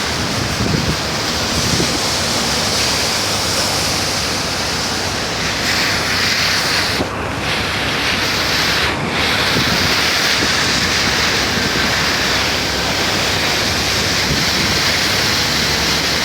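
Heavy tropical downpour: a loud, steady hiss of rain pouring down.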